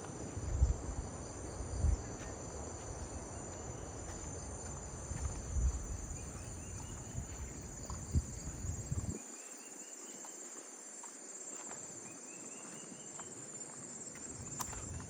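Evening insect chorus, a steady high-pitched shrilling, with short rising chirp series every few seconds. A few low thumps come in the first half, and then the low background rumble drops away.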